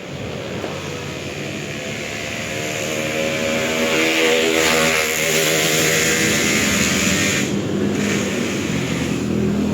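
A motor vehicle engine running nearby and getting louder over the first few seconds. A hiss joins it in the middle and stops suddenly about seven and a half seconds in.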